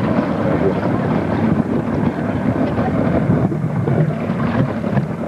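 Jet ski engine running steadily, with wind rumbling on the microphone.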